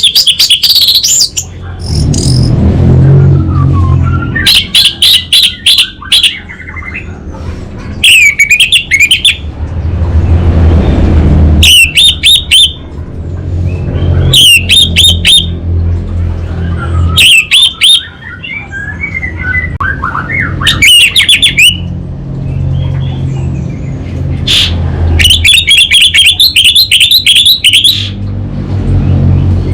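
Orange-headed thrush singing loudly in short phrases of rapid, repeated chirping notes, about a phrase every two to three seconds.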